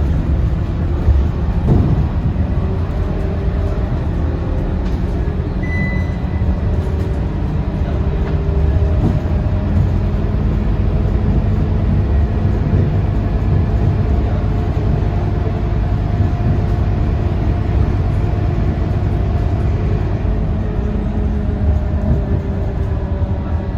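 Scania K230UB bus's diesel engine and drivetrain, heard from inside the bus, running steadily with a deep drone as the bus travels along.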